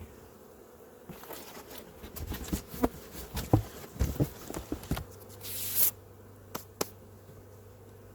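Honeybees buzzing around the hive in a steady hum, over a run of sharp clicks and knocks from handling the hive. A short loud scraping rasp comes about five and a half seconds in, with two more clicks soon after.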